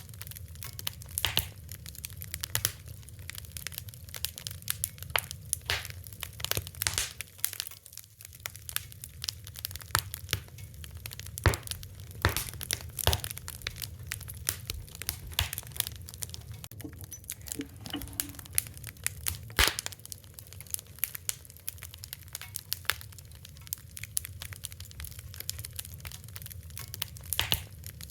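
Wood fire crackling: irregular sharp pops and snaps, some loud, over a steady low hiss.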